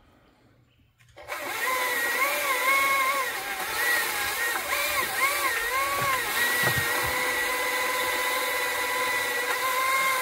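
A chainsaw starts up about a second in and cuts into a tree limb, its pitch dipping and recovering several times as the chain bites, then running steady at a high pitch.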